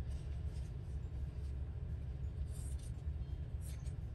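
Steady low hum with faint, brief rustles of paper scraps being handled, about two and a half and again near four seconds in.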